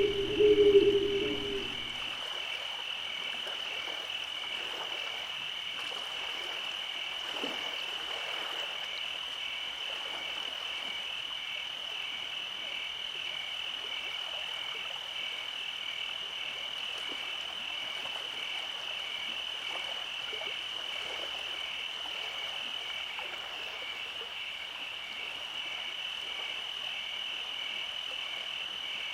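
Night chorus: a steady, high-pitched trilling with a regular pulse runs throughout. A loud, lower croaking frog call sounds for about the first two seconds.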